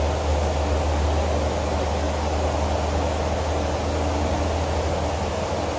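Heavy rainstorm: rain falling steadily as a dense, even hiss, with a steady deep low rumble underneath.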